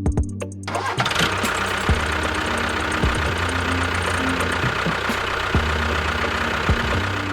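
A vehicle engine running steadily with occasional knocks, starting about a second in and cutting off short music.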